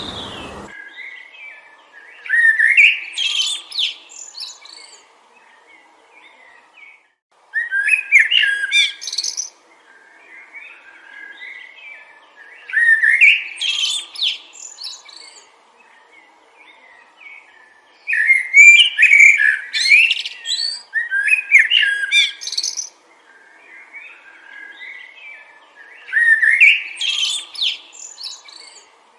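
A songbird singing short, quick warbled phrases of about two seconds each, repeated roughly every five seconds, six times in all.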